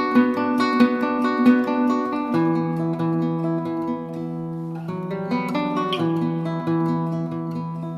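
Background music: acoustic guitar playing plucked and strummed chords with a steady rhythm.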